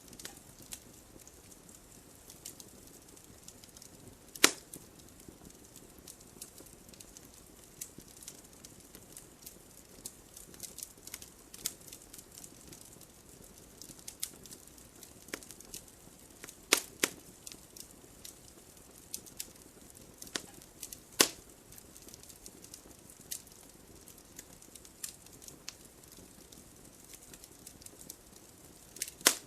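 Wood fire crackling in a fireplace: scattered sharp pops and snaps from the burning logs over a soft steady hiss, with a few louder snaps about four, seventeen and twenty-one seconds in.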